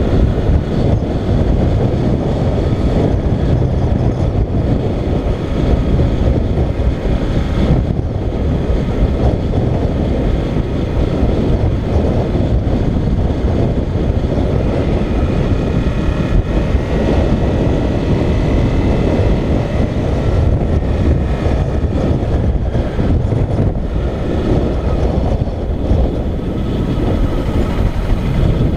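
Motorcycle riding at road speed: heavy wind rush across the microphone over the engine running steadily, with a faint whine that shifts in pitch now and then.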